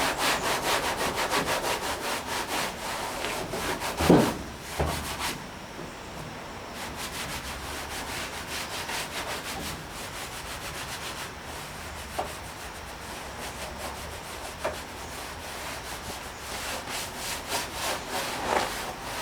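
Quick back-and-forth hand rubbing on the painted body of a 1959 VW single cab pickup, working the old paint to uncover the patina and lettering. The strokes come thick and fast for the first five seconds, ease off in the middle and pick up again near the end.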